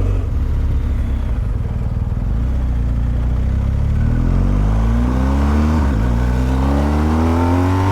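Motorcycle engine accelerating hard, its pitch rising, dropping once at a gear change about six seconds in, then rising again, under heavy wind noise on the microphone.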